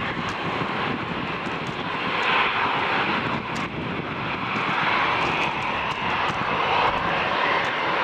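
Jet airliner engines running: a steady, broad rushing noise that swells and eases a little.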